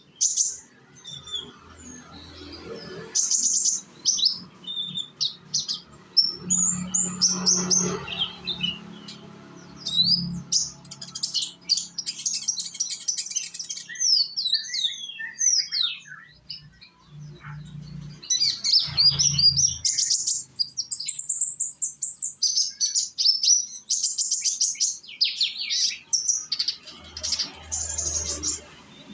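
Young kolibri ninja (brown-throated sunbird) singing: a fast, high-pitched string of chirps, twitters and rapid trills, coming in bursts with short breaks. It is the kind of young-bird song used as a lure to draw other konin into singing.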